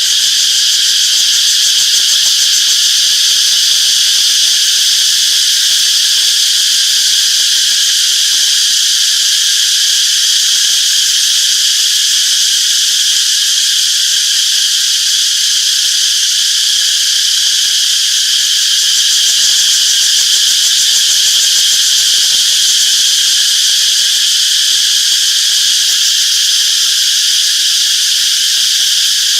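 A chorus of cicadas: a loud, steady, high-pitched buzz that runs without a break.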